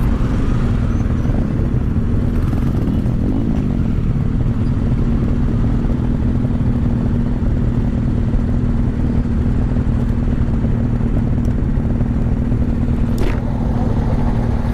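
Motorcycle engine idling steadily, with a short rev that rises and falls about three seconds in.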